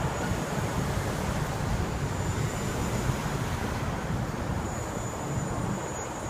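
Steady rumble of busy street traffic, with wind rushing over the microphone.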